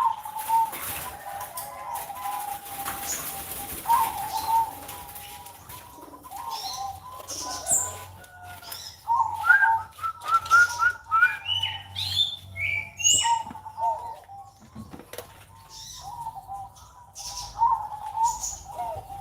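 Perkutut (zebra dove) cooing in repeated short phrases, with higher chirps in between.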